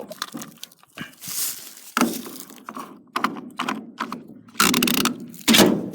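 A run of knocks, clunks and rustling from objects being handled and moved about, with two louder rustling bursts near the end.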